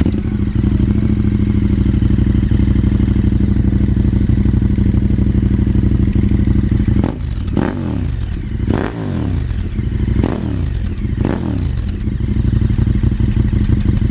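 KTM 1290 Super Adventure S V-twin with an aftermarket Delkevic exhaust, firing up and idling steadily. About seven seconds in it is revved in a few quick throttle blips, each falling back, then settles to idle again.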